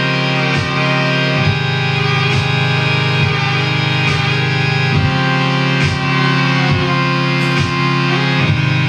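Live rock band playing an instrumental passage: sustained guitar over bass, with a steady drum beat and no singing.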